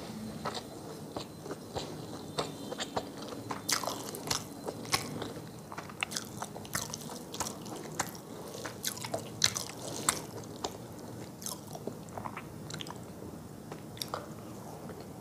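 Close-miked eating: a mouthful of rice and curry being chewed, with wet mouth clicks and a few crisp crunches at an irregular pace. The clicks are thickest around four and ten seconds in.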